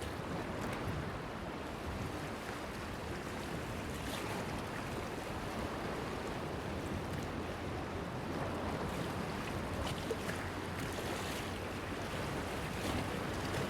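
Small sea waves washing and lapping against a stone breakwater pier, a steady wash with a few faint small splashes.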